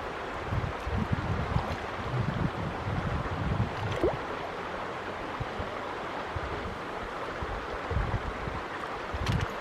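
Steady sound of running river water, with gusts of wind buffeting the microphone as low rumbles now and then.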